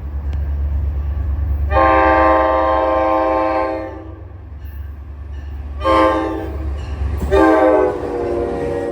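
NJ Transit train horn sounding a long blast, a short one and a third, longer one whose chord slides down in pitch as the train passes, over the low rumble of the train.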